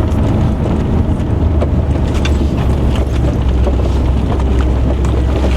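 Truck driving on a dirt off-road trail, heard from inside the cab: a steady low rumble of engine and aired-down 37-inch tyres, with scattered small clicks and rattles.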